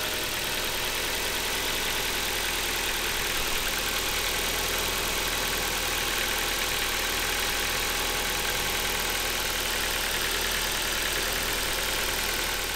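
Ford Focus 1.6 petrol four-cylinder engine idling steadily with a metallic ticking from the valve gear, "taca taca taca": tappet noise on a cold start, which the owner puts down to the hydraulic tappets.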